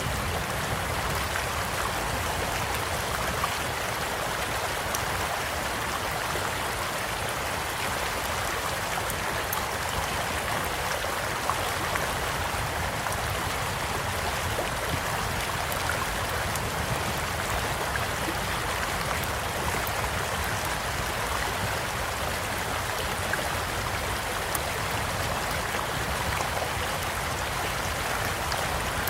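Steady rush of a small flowing stream, with occasional sharp crackles and pops from a wood campfire.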